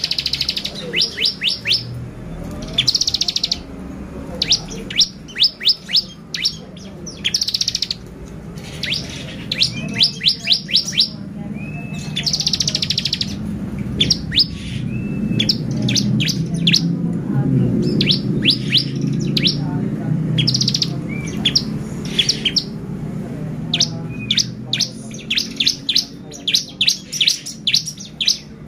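Ciblek (bar-winged prinia) singing vigorously: rapid runs of sharp, high chirps in quick bursts, broken every few seconds by short buzzy trills.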